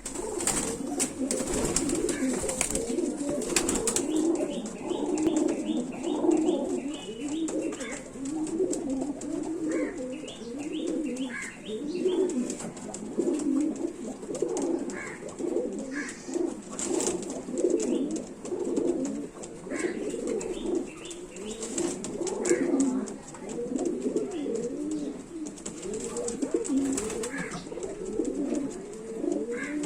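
Several domestic pigeons cooing continuously, their low calls overlapping, with short high chirps now and then and a brief rapid high trill a few seconds in.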